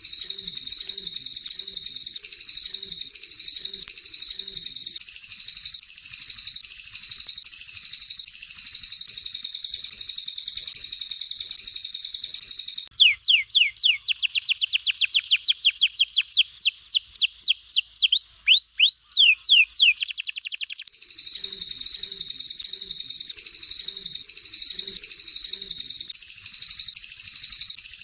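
Songbird song of canary and cililin: a dense, very high, unbroken chatter that gives way near the middle to fast, rapidly repeated downward-sliding whistles for several seconds, then returns to the high chatter.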